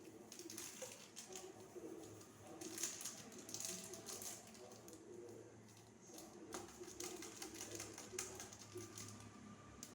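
Faint, irregular clicks and taps as urea is added to the solution and stirred in with a wooden stick.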